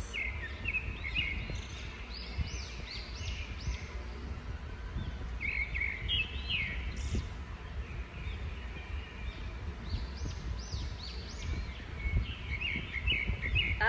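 Small birds chirping in several quick clusters of short rising-and-falling chirps, over a steady low rumble of background noise.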